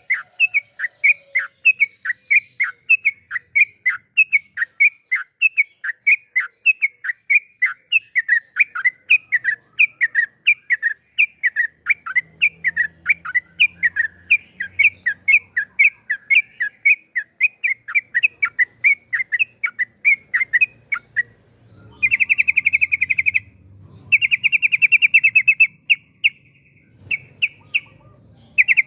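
Yellow-vented bulbul (trucukan) singing: a long run of quick downward-slurred chirps, about three a second, and then, from about 22 s, fast rattling trills, the long 'ropel' rolls, in two runs of a couple of seconds each and a few shorter bursts near the end.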